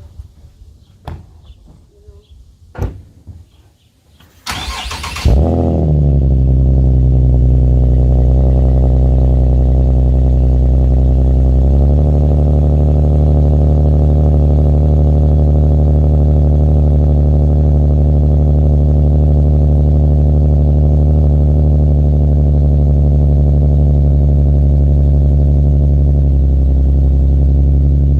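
A few clicks, then a car's starter cranks briefly and the engine catches on a cold start, flares and settles into a loud, steady idle through an aftermarket Rev9 cat-back exhaust. The idle note shifts once, about twelve seconds in.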